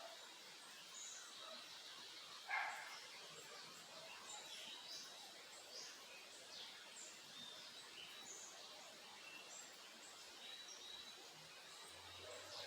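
Backyard birds chirping faintly, short high chirps and whistles scattered all through, over a steady low hiss. About two and a half seconds in, one brief, louder and lower-pitched sound stands out.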